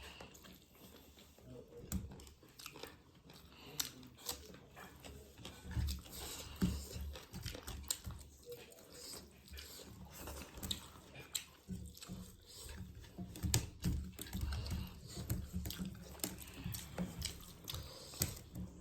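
A person chewing and biting mouthfuls of rice and mutton curry, with irregular crunchy bites.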